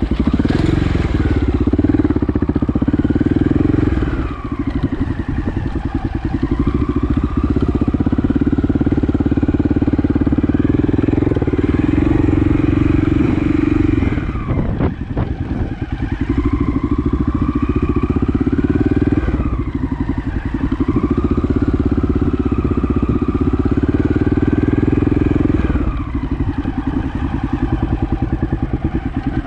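Honda XL600R's single-cylinder four-stroke engine under way, pulling with the revs rising and falling. The throttle is rolled off and opened again several times, each time a short dip in the engine note.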